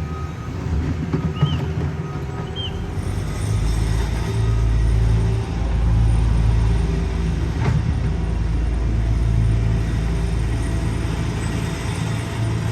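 Heavy diesel road-paving equipment running with a steady low rumble, which grows louder and heavier about three seconds in.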